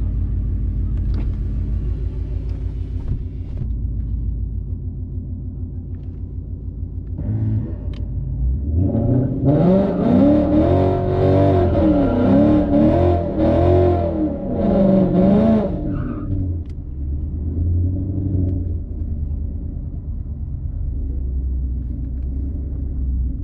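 Car engine idling with a low rumble, then revved hard for about seven seconds, the pitch rising and falling several times, before it settles back to idle.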